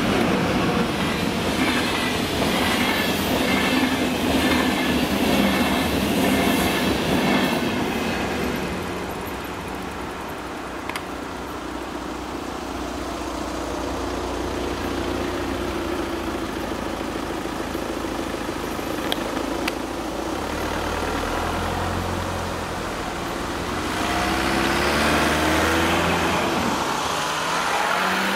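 An ÖBB Railjet passenger train passes fast over the level crossing, its wheels clattering over the rails, and fades after about eight seconds. A quieter stretch follows, with a steady low hum while the crossing barriers lift. Near the end a car drives over the crossing.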